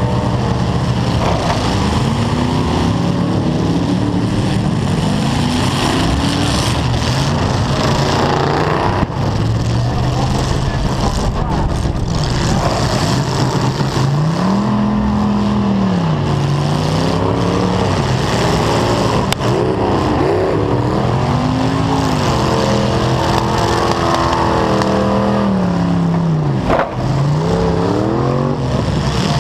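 1990 Chevy Caprice Estate Wagon's V8 engine revving hard, its pitch rising and falling over and over, with a couple of sharp knocks later on.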